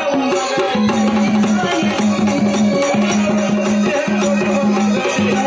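Instrumental passage of Marathi gondhal folk devotional music: fast, even percussion with rattling, jingling strokes, over a steady low pitched note repeated in short held phrases.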